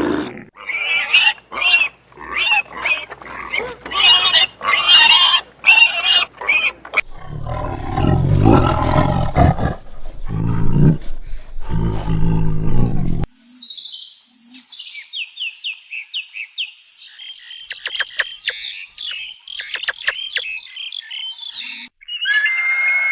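A run of animal calls: first about a dozen short, high calls in quick succession, then a deep big-cat roar lasting several seconds, then high bird chirps and whistles.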